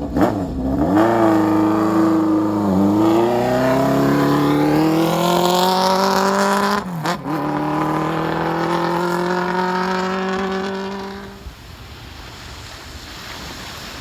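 A motorcycle engine accelerating hard, its pitch climbing steadily with two short drops at the gear changes, about three and seven seconds in; it fades out near the end, leaving surf and wind.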